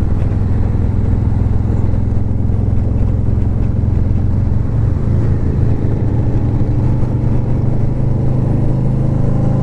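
Harley-Davidson V-twin motorcycle engine running steadily while riding, with a haze of road and wind noise over it. The engine note settles into clearer, more even tones about halfway through.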